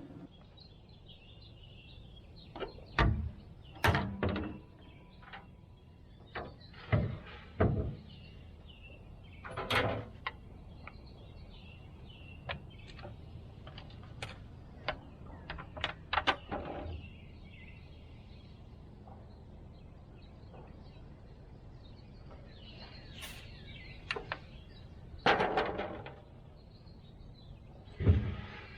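A series of separate knocks and clunks, some in quick clusters, with birds chirping in the background.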